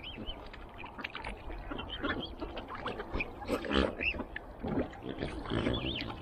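Waterfowl calling: many short, overlapping calls from ducks and other birds at the water, some low and nasal, others higher and chirping.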